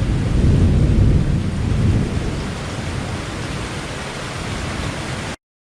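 Rolling thunder rumbling and slowly dying away over steady heavy rain; the sound cuts off suddenly near the end.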